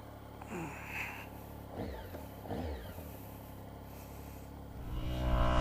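Triumph Speed Triple's three-cylinder engine idling steadily, with three short rising-and-falling cries over it in the first three seconds. Near the end a louder, steady droning music swells in.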